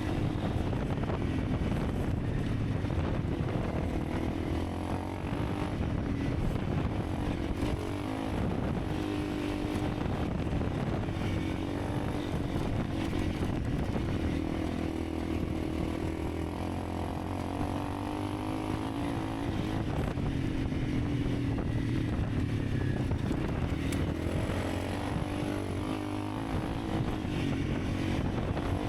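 Honda CRF300 Rally's single-cylinder engine running under way, its revs rising and falling, with wind and tyre noise.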